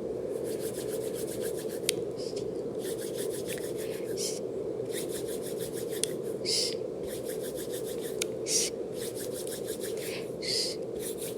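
Steady low brown noise with ASMR rubbing and scratching laid over it in fast runs of strokes, about eight to ten a second, broken by a few short hisses.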